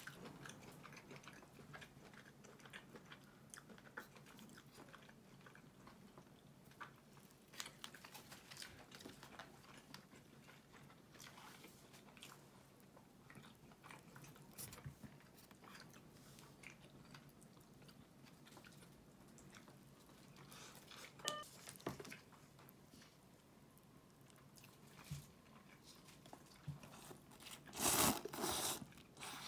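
Quiet eating sounds: chewing and biting of yakitori chicken skewers, with small clicks of wooden chopsticks against the plastic tray. There is a short, louder burst of noise near the end.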